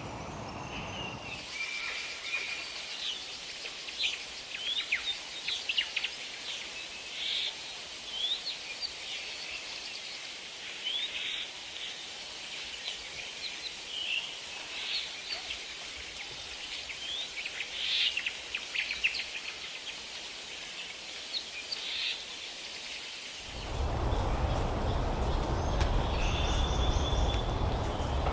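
Forest birds calling: many short, sharp chirps and whistles, some rising or falling quickly in pitch, over a steady hiss. About a second and a half in the sound changes abruptly, and again a few seconds before the end, where a loud low rumble takes over with fainter calls above it.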